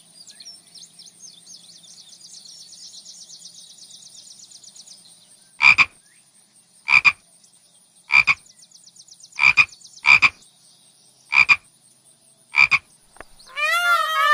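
A frog croaking: about eight short, loud croaks spaced roughly a second apart. Before them there is only faint high chirping, and near the end a loud, wavering call cuts in.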